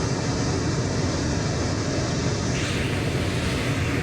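Intermodal freight train passing, a steady rumble of wheels on the rails, with more hiss from about two and a half seconds in.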